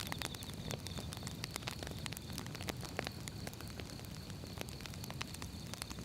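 Firewood burning with a steady crackle: many irregular sharp pops and snaps over a low, even rumble of the flames.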